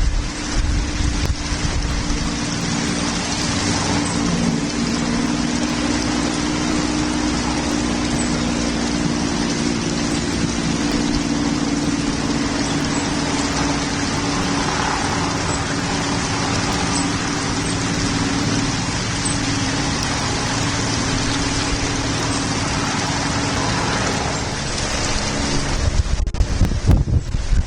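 Steady heavy rain falling, an even hiss, with a low rumble near the end.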